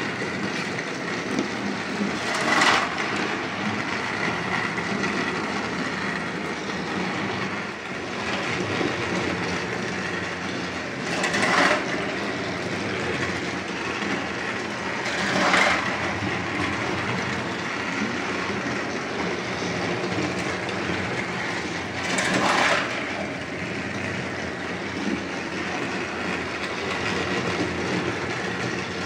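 Battery-powered Thomas & Friends TrackMaster toy trains running on plastic track: a steady motor whir and rattle of wheels. A louder, brief clatter comes four times, several seconds apart.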